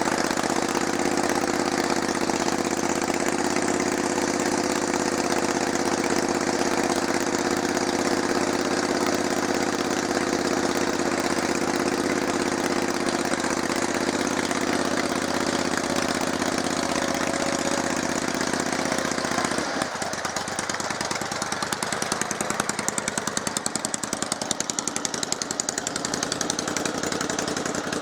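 Kohler 20 hp V-twin engine of a lawn tractor running steadily under throttle. About twenty seconds in, its note drops and turns to a choppier, pulsing beat.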